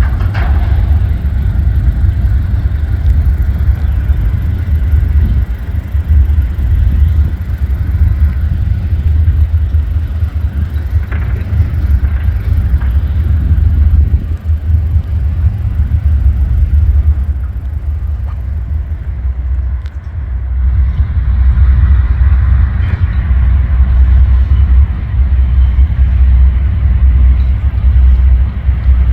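A train passing close by: a loud, steady low rumble that eases briefly about two-thirds of the way through, then builds again.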